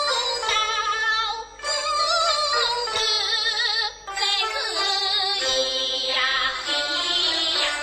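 Teochew opera singing with its instrumental accompaniment: a high voice holds wavering, ornamented notes, with two brief breaks between phrases.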